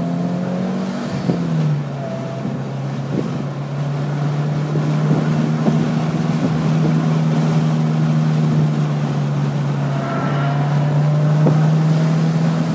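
2008 Subaru Impreza WRX STi's turbocharged 2.5-litre flat-four engine running under load on track, heard inside the cabin as a steady drone. Its pitch steps down about a second and a half in, holds, and climbs again near the end.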